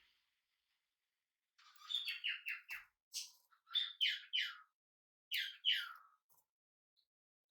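Budgerigar chirping in three short bursts of quick falling notes, starting about a second and a half in.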